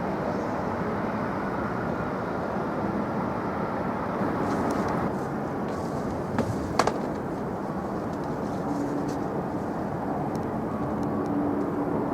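Steady rumble of distant engines, with two sharp clicks about six and a half seconds in.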